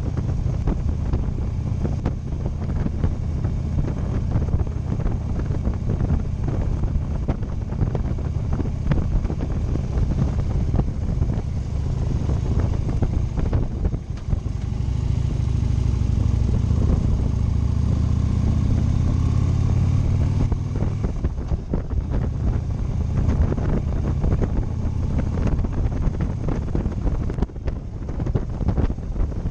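Motorcycle engine running under way, with wind buffeting the microphone. About halfway through, the engine note climbs for several seconds as the bike accelerates, then drops suddenly.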